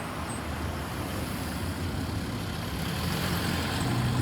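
Road vehicle engine and road noise: a steady low rumble that grows gradually louder.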